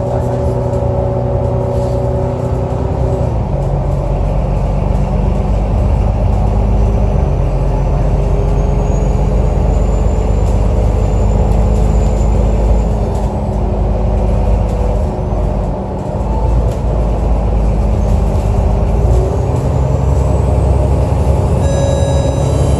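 Alexander Dennis Enviro 500 double-decker bus engine running under way, its note shifting in steps as the gearbox changes gear, with a faint high whine rising in the middle. This is the engine sound that the uploader calls weird.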